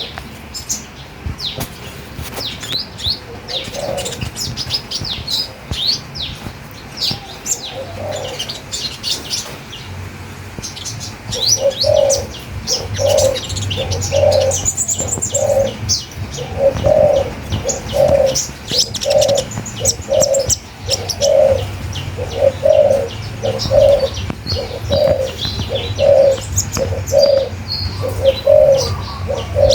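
Songbirds chirping with many short, quick high notes. From about a third of the way in, a lower call joins, repeated steadily about one and a half times a second.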